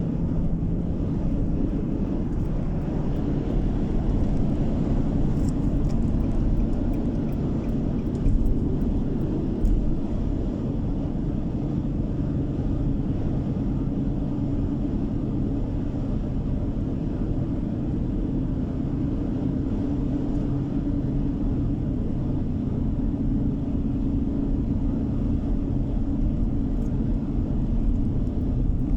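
Continuous road and engine noise of a car being driven, a steady low rumble with a hum that slowly shifts in pitch. Two short bumps about eight and ten seconds in.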